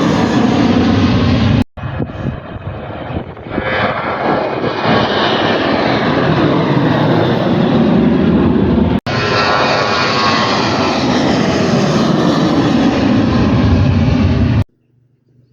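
Aircraft engines running loud at close range, a dense even roar heard in three pieces with abrupt cuts between them, stopping suddenly near the end.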